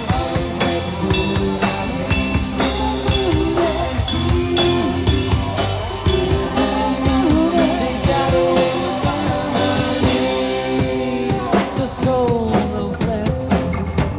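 Live rock band playing: a drum kit keeps a steady beat under electric guitar, with a melodic line bending in pitch over the top.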